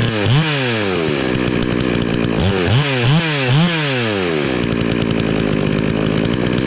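FarmMac F380W 72cc two-stroke chainsaw running, revved in a quick blip about half a second in and three quick blips around the middle, then held steady. The new engine is starting to open up.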